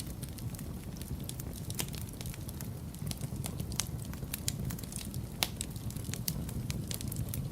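Wood fire burning in a fireplace: a steady low rumble of the flames with irregular sharp crackles and pops, the loudest about five seconds in.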